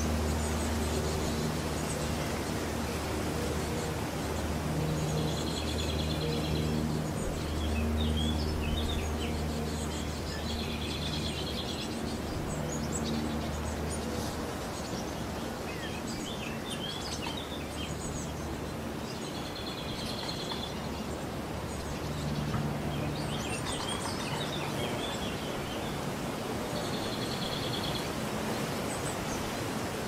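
Songbirds singing outdoors: one bird repeats the same short, buzzy song phrase four times, with scattered chirps from others in between. Beneath them runs a steady low hum carrying a few faint steady tones.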